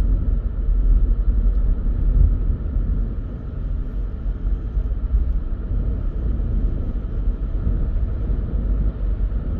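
Car driving along a road: a steady low rumble of engine and tyre noise, easing slightly about three seconds in.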